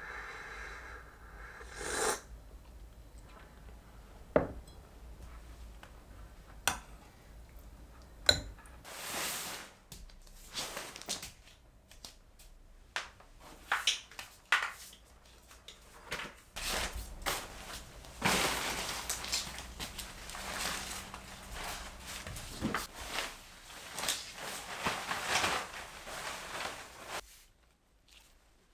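Household handling sounds, most like dishes and utensils: scattered sharp clinks and knocks, then a denser stretch of clattering and rustling in the second half that stops shortly before the end.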